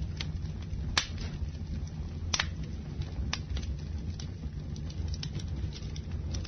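Campfire burning: irregular sharp crackles and pops over a steady low rumble of the flames, with the loudest pop about a second in.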